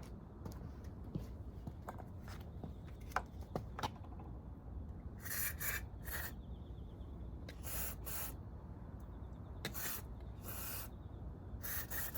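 Hand work on motorcycle engine parts: small scattered clicks and several short hissing or rubbing bursts, each under a second long.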